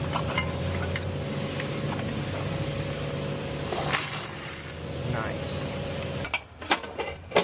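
Quarters clinking and clanking in a self-serve car wash's coin vault as it is emptied, with several sharp metallic clanks near the end. Under it runs a steady low mechanical hum that stops about six seconds in.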